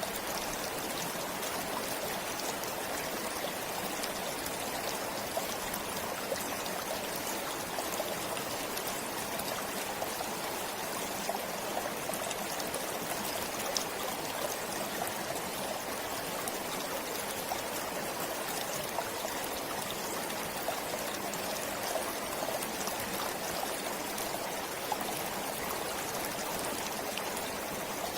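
Forest stream flowing steadily: an even rush of water with small trickling splashes throughout.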